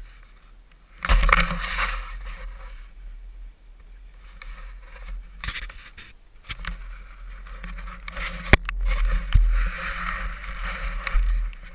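Wind buffeting a helmet-mounted action camera's microphone, a heavy low rumble with gusts of hiss that swell about a second in and again near the end. Two sharp knocks about eight and a half and nine and a half seconds in.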